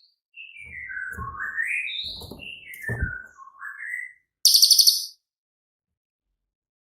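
Cililin songbird singing: whistled phrases that slide down and then back up, followed about four and a half seconds in by a loud, rapid, high trill, the sharp 'tembakan' (shot) call that keepers use as master song for other songbirds.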